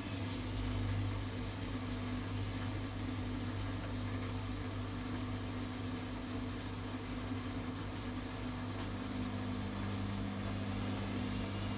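Atlant 70C1010-02 front-loading washing machine running with a steady low motor hum.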